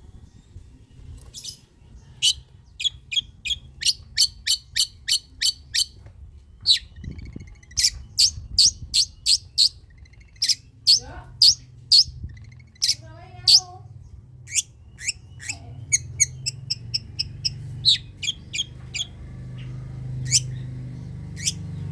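Long-tailed shrike (cendet) calling: runs of short, sharp, high notes about three a second, broken by a few lower gliding notes near the middle. A low hum grows louder underneath near the end.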